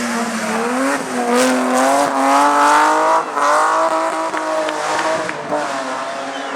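Rally car engine revving hard under acceleration, its pitch climbing for about three seconds, then a brief break at a gear change, after which the note holds and falls away as the car goes by.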